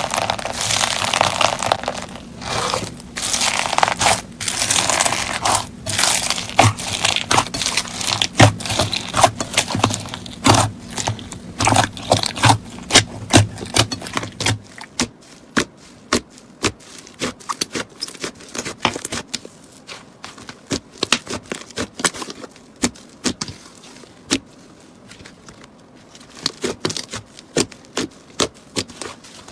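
Slime being squeezed and pressed by hand, giving dense crackles and sharp clicks. About halfway through, the crackling gets quieter and the clicks come sparser.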